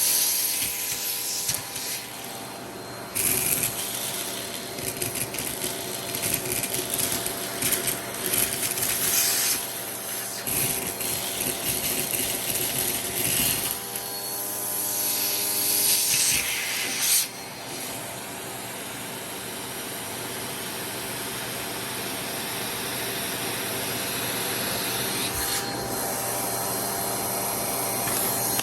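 Vacuum cleaner running with a steady motor whine while its attachment tool is worked over surfaces. The suction hiss swells and drops in spells, then settles to an even run in the second half.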